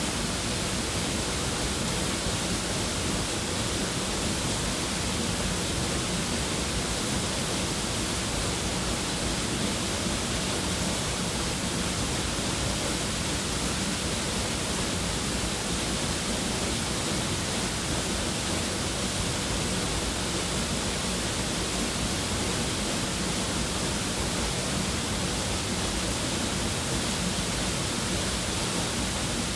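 Water of the Tōseki waterfall falling, a steady, even rush that holds one level throughout.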